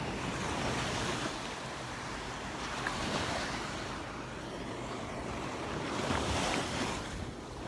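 Gulf of Mexico surf, small waves washing onto the beach and swelling and easing every few seconds, with some wind on the microphone.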